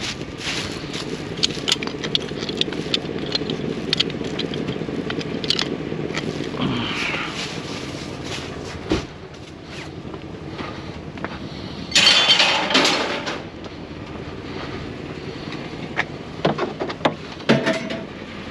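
Scrap being handled and loaded into a trailer: scattered clanks and knocks, with a loud scraping clatter about twelve seconds in, over a low vehicle hum.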